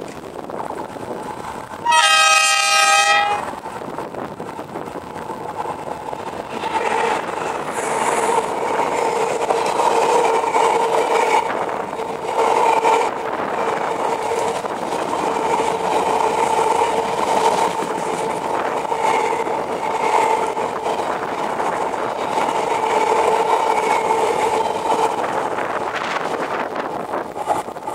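D19E diesel locomotive sounds its horn once, briefly, about two seconds in. From about six seconds a passenger train's cars roll past close by: a steady rumble and clatter of wheels on rail, with a steady whine held over it.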